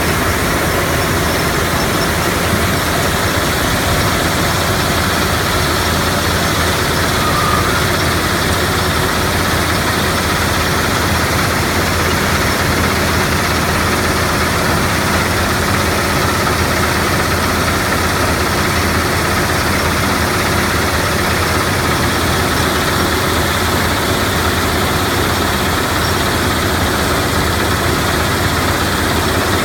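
Gravel-to-sand crushing plant running: a loud, steady mechanical drone with a low hum and a wash of grinding noise, unchanging throughout.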